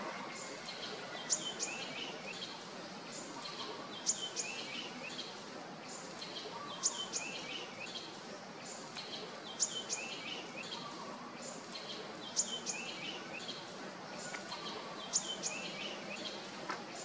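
A bird calling the same short phrase about every three seconds, six times: two sharp, high notes followed by a brief falling twitter, over a steady outdoor hiss.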